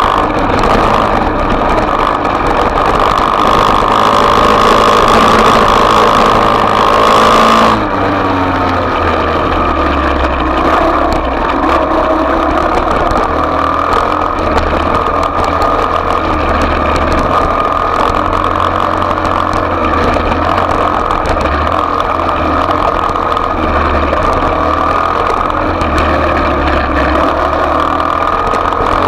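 Small dirt-bike engine running and revving, held high for the first several seconds, then changing suddenly about eight seconds in and rising and falling with the throttle.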